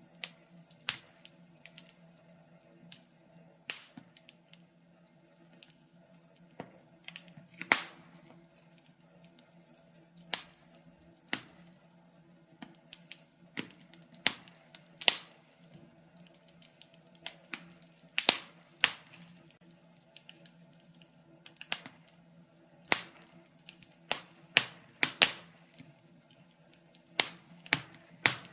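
Wood fire crackling in a fireplace: irregular sharp pops and snaps, a few a second, some much louder than others, over a faint steady low hum.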